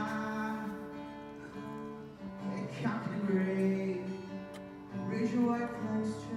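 Guitar strumming sustained chords, with a new chord struck about three seconds in and another about five seconds in, played through the sanctuary PA during a sound check.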